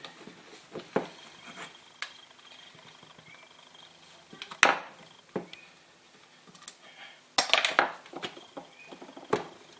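Metal tools and throttle body parts clinking and knocking as the throttle body is stripped by hand: scattered light taps, a sharper knock about halfway through and a quick run of knocks near the end.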